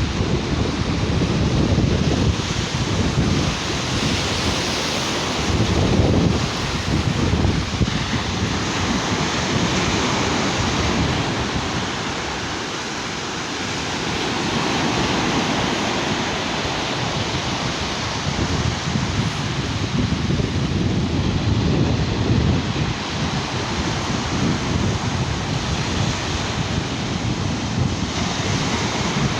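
Sea waves washing onto a sandy beach, with wind buffeting the microphone in gusts.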